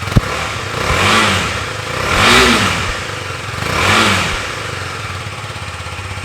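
KTM Duke 250 BS6's single-cylinder engine idling through its stock exhaust, blipped three times with the throttle, each rev rising and falling back to idle, the middle one highest and loudest. A sharp click just after the start.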